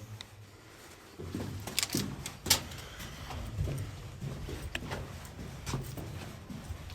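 Footsteps scuffing and knocking on a tunnel floor, with a few sharp clicks about two and two and a half seconds in.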